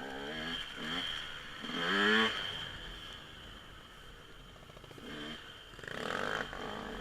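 Motocross dirt bike engine revving, its pitch rising sharply about two seconds in and again near the end, with a quieter stretch between.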